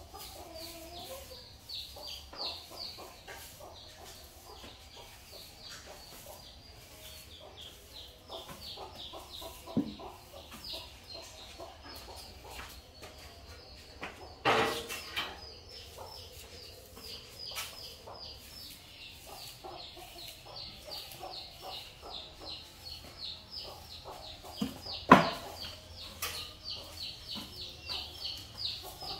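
Birds chirping rapidly and continuously in short, high, falling calls, with a few sharp knocks; the loudest knock comes about twenty-five seconds in.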